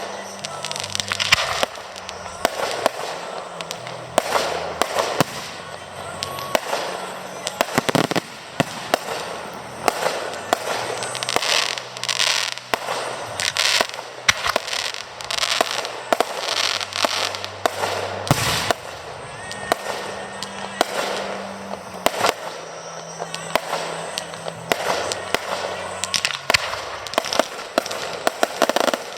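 Aerial fireworks display: a dense, unbroken string of shells bursting with sharp bangs, several a second, over continuous crackling.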